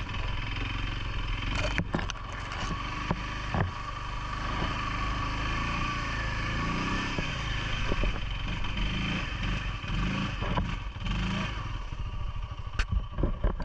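CFMOTO ATV engine running steadily, with scattered knocks and clatter throughout.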